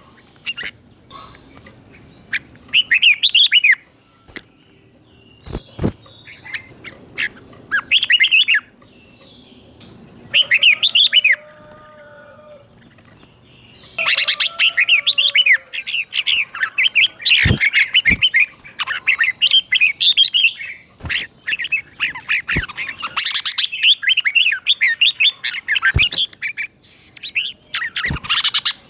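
Red-whiskered bulbul singing short, quick warbled phrases in its doubled 'เบิ้ล' style. At first the phrases come a few seconds apart; from about halfway it sings almost without a break. A few sharp clicks are scattered through.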